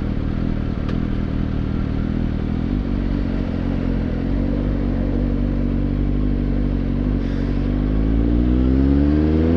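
Suzuki GSX-S750's inline-four motorcycle engine running at a steady cruise with wind and road noise. In the last two seconds its pitch rises as the bike accelerates.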